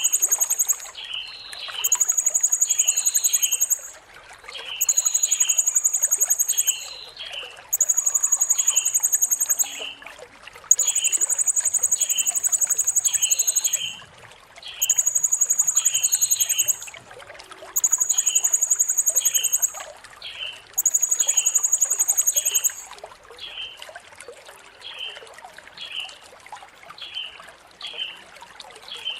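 Blue-crowned hanging parrot (serindit) giving very high, shrill trills about two seconds long, roughly every three seconds, that stop about 23 seconds in. Fainter short chirps repeat about once a second throughout.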